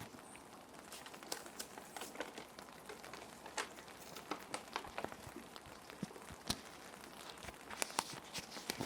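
Plastic sheet protectors crinkling and crackling as they are handled, with irregular sharp crackles, a few louder ones in the second half, over a steady hiss of gentle rain.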